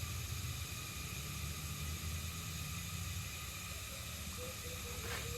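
Steady outdoor background hiss with a low rumble. Near the end, a faint, rapid pulsed note begins, repeating about four times a second.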